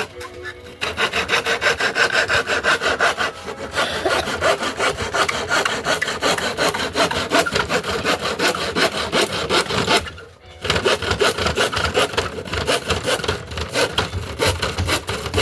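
Hand saw cutting through wood in rapid back-and-forth strokes, pausing briefly about ten seconds in before sawing on.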